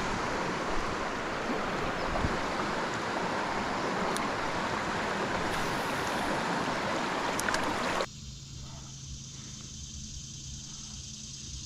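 Steady rush of flowing river water that cuts off abruptly about eight seconds in, giving way to a much quieter background with a faint low hum.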